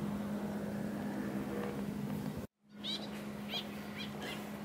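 Birds chirping in short, repeated calls over a steady low hum. The sound drops out completely for a moment about halfway through, then the chirping starts.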